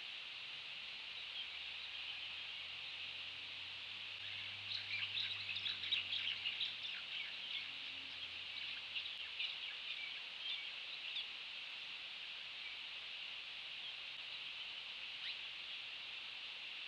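Bird chirping in a quick run of short calls that starts about four seconds in and dies away by about eleven seconds, with one more faint chirp near the end, over a steady high hiss of outdoor ambience.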